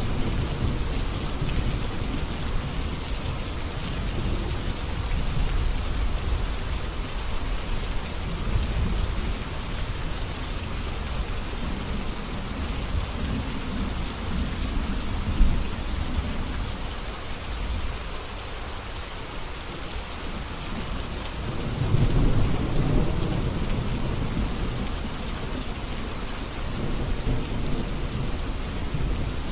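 Steady rain with low rolling thunder swelling and fading underneath; the loudest roll of thunder comes about two-thirds of the way through.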